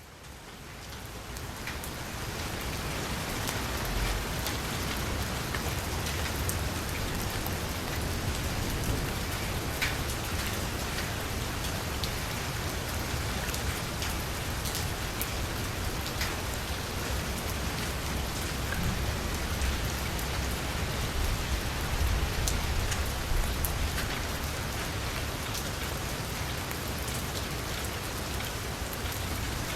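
Heavy rain drumming on a vehicle's roof and window: a dense, steady hiss with individual drops ticking sharply through it. It fades in over the first few seconds.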